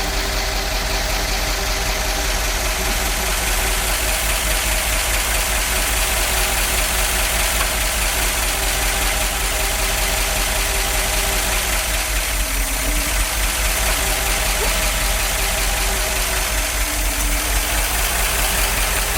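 The big-block V8 of a 1969 C50 truck running at a steady idle just after being revived from decades of storage, its valve train a little noisy. The owner suspects the ignition timing is off.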